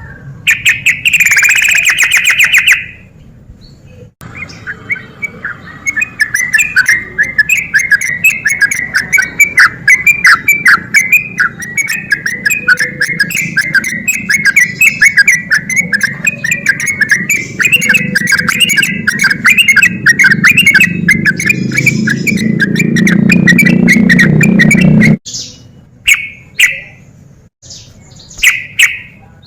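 Yellow-vented bulbul (trucuk) singing. It opens with one loud call, then runs into a long, fast, unbroken chatter of notes for about twenty seconds, the 'ropel' style, which cuts off suddenly. A few short separate calls follow near the end.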